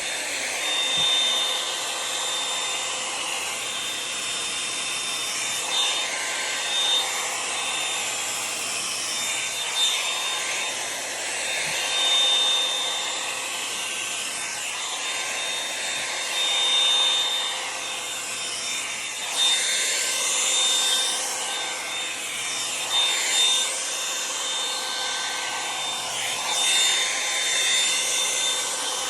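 Revlon One-Step hot-air brush dryer running steadily, its motor giving a thin whine over the rush of air, which swells and fades every few seconds as the brush is drawn through hair, with bristles rubbing through the hair.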